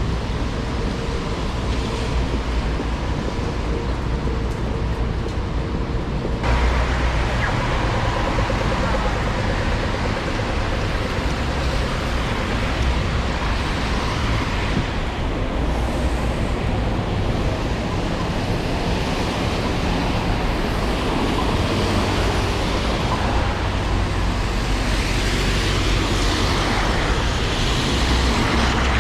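Steady city street traffic noise with the hiss of heavy rain, an even wash of sound under a low rumble that turns brighter about six seconds in.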